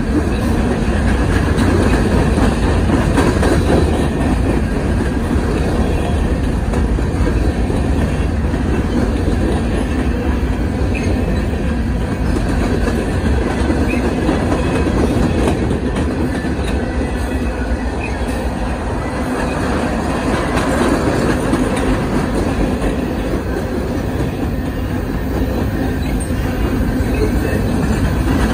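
Freight cars of a Norfolk Southern train rolling past at close range: a steady loud rumble and rattle of steel wheels on the rails, with a few faint brief wheel squeals in the middle.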